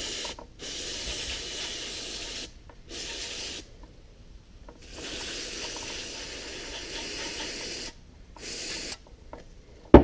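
Aerosol spray cleaner hissing in five bursts, the longest about three seconds, washing metal particles off a magnetic transmission drain plug. A sharp knock comes at the very end.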